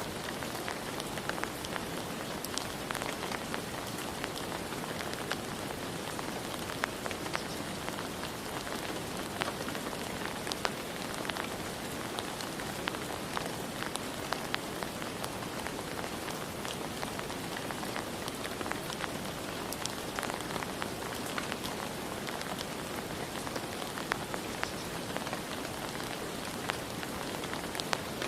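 Steady rain falling, with many individual drops ticking sharply over a continuous hiss.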